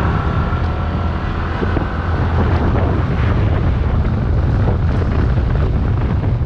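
Motorcycle riding in traffic: the engine runs steadily under heavy wind noise on the microphone.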